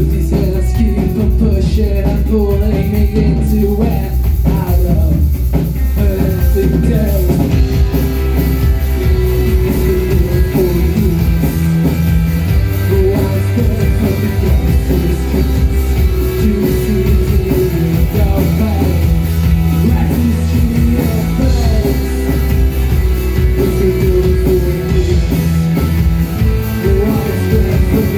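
Post-punk band playing live: a sustained bass line and driving drum kit under repeating guitar lines.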